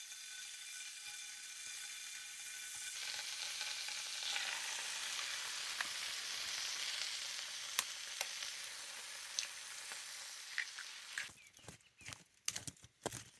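Food sizzling and frying in a hot pan, a steady hiss with a few sharp pops of fat. Near the end the sizzle drops away into a run of short knocks and clicks.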